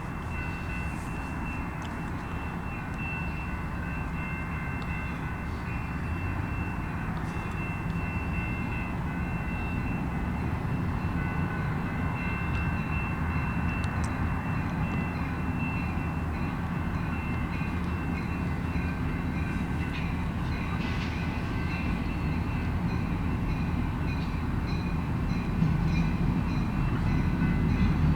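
Canadian National freight train's diesel locomotives rumbling as they approach, growing steadily louder, with a thin steady high-pitched whine above the engine sound.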